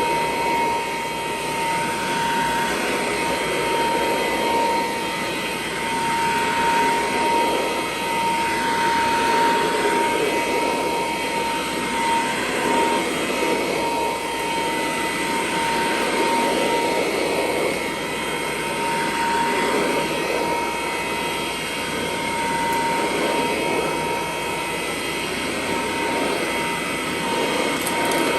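1935 Kirby Model C upright vacuum cleaner running on carpet: a steady high motor whine over rushing air that swells and fades about every two seconds as it is pushed back and forth.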